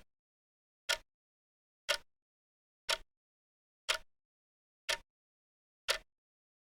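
Countdown timer's ticking sound effect: short, sharp ticks once a second, with dead silence between them.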